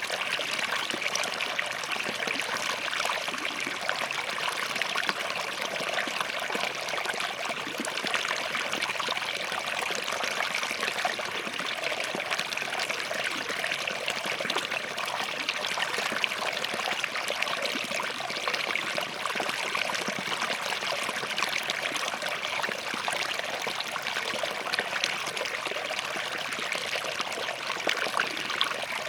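Small forest stream flowing over and between rocks: a steady babble of running water with fine splashing and trickling.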